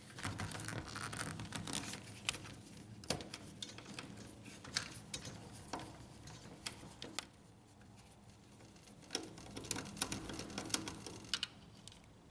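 Screwdriver backing out a screw from an HP LaserJet P1102 laser printer, one of the screws holding the fuser unit: scattered small clicks and scrapes of the tool and plastic parts, with a quieter moment a little past the middle.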